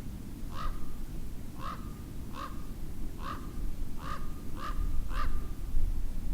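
A bird giving a series of short, harsh calls, about seven in six seconds at an uneven pace, over a steady low background rumble.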